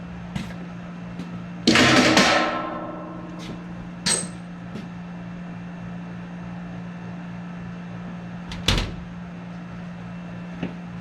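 Steady low hum with a few handling noises over it: a loud scraping rustle about two seconds in, a sharp metallic click with a brief ring about four seconds in, and a knock near the end.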